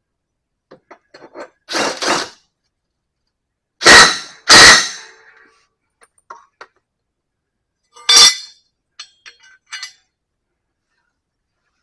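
Metal parts and tools clanking and clinking as they are handled and set down. There is a double clank about two seconds in, the two loudest strikes about four seconds in and half a second apart, and another about eight seconds in, with lighter clicks between.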